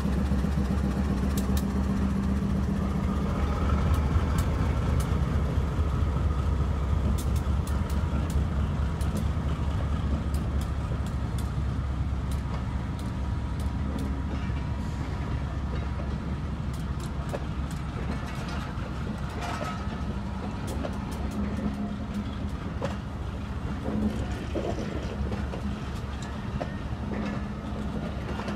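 Diesel locomotive's engine running with a steady low drone that fades as it pulls away, followed by passenger coaches rolling slowly past, their wheels clicking over the rail joints.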